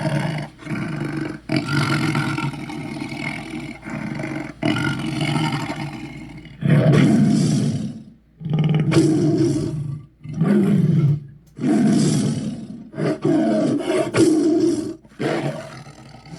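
Creature roar sound effects, a mix of bison, big cat, bear and monster: a run of about ten rough, loud roars and growls, each one to three seconds long, with short breaks between them.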